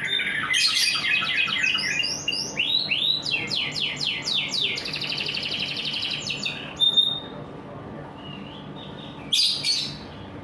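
Domestic canary singing: fast rolling trills and runs of sweeping notes, breaking off about seven seconds in, then one short loud phrase near the end.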